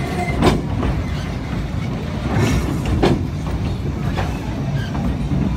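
Narrow-gauge steam train running, heard from aboard one of its carriages: a steady rumble of carriages on the rails with two sharp wheel knocks, about half a second and three seconds in.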